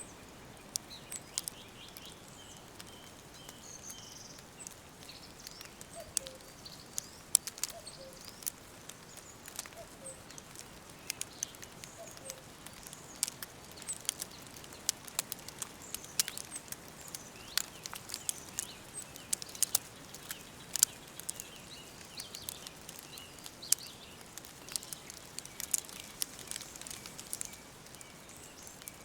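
Wood fire crackling, with sharp irregular pops over a steady hiss, and a few faint bird chirps and short calls behind it.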